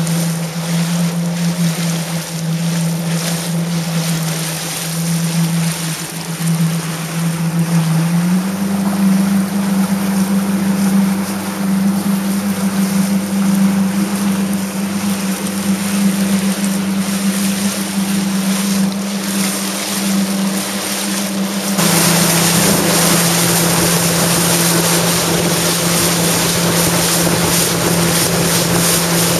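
Jet ski engine running under way with a steady drone that steps up in pitch about eight seconds in. About twenty-two seconds in, the rush of wind and water grows louder and the engine note drops back slightly.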